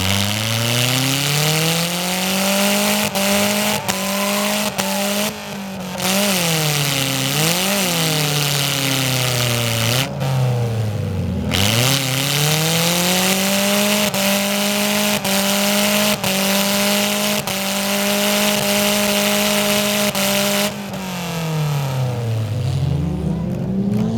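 Car engine with short open exhaust stacks revved hard and held at high revs for long stretches. It drops and climbs again a few times while the drive wheels spin in mud and the car stays stuck.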